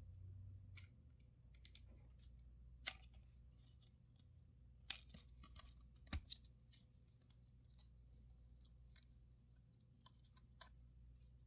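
Faint, scattered small clicks and light crinkling from handling a new SR626SW silver-oxide button cell during a watch battery change, with a few sharper clicks around the middle.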